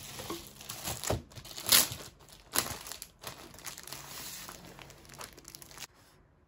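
Something crinkly being handled close up: a run of rustles and sharp crackles, the loudest just under two seconds in, stopping shortly before the end.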